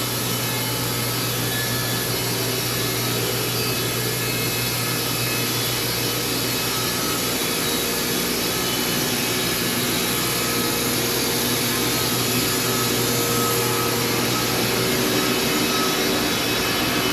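Wood-Mizer band sawmill running steadily with a constant hum and hiss, its band blade sawing through a log. The sound grows slightly louder toward the end.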